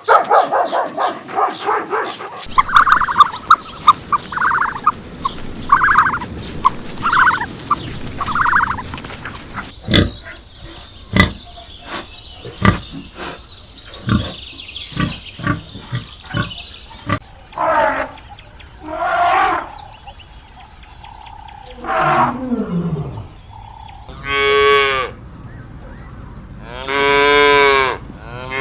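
A run of different farm animal calls, one kind after another: repeated cries at first, a stretch of sharp clicks or knocks in the middle, then longer pitched calls near the end.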